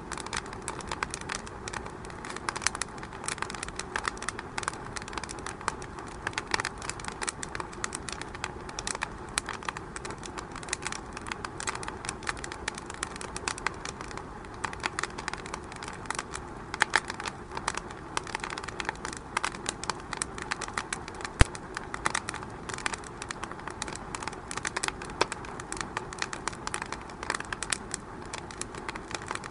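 Wood fire in a fireplace crackling, with a continuous hiss of burning and irregular snaps and pops. One sharper pop about two-thirds of the way through stands out.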